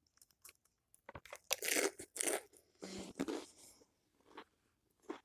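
Close-up crunching of tortilla chips being bitten and chewed. There are two spells of loud crunching, about one and a half and three seconds in, then a few faint chewing clicks.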